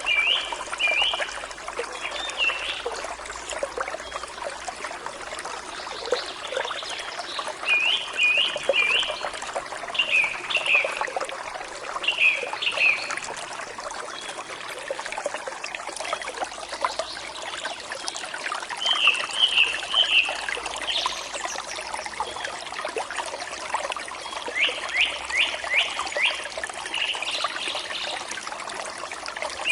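Forest stream trickling steadily, with a songbird singing short phrases of quick, high, repeated notes every few seconds.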